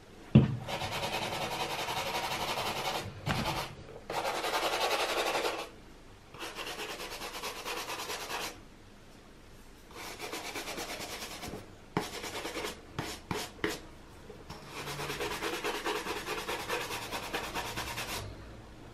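Wet cleaning brush scrubbing a white Nike Air Force 1 sneaker with Crep Protect solution. It goes in several spells of quick back-and-forth strokes with short pauses between, and a run of shorter strokes about two-thirds of the way in.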